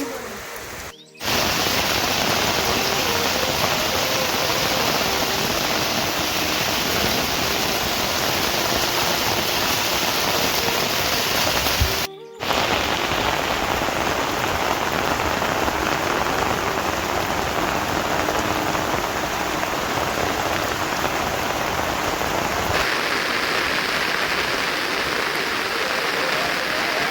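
Heavy rain falling steadily, a dense even hiss, which drops out for a moment twice.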